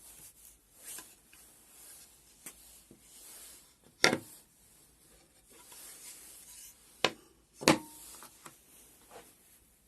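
Small hard objects being handled and set down on a hard surface: light rubbing and scraping, with a few sharp knocks, the loudest about four seconds in and two close together near the end.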